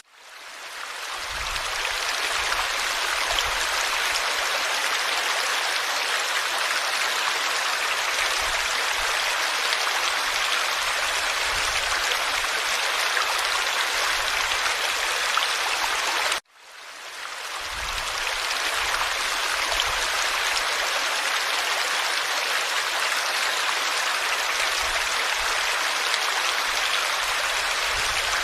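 Forest stream flowing, a steady rushing babble of water. The sound drops out suddenly and swells back in over a second or two, at the start and again just past halfway.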